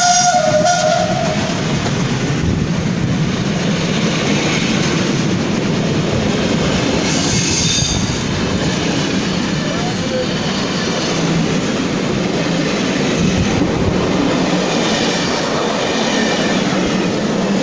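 A train of vintage SBB passenger coaches rolling past close by: steady rumble and clatter of wheels on the rails, with brief high wheel squeals about seven seconds in. A horn sounding two notes cuts off about a second in.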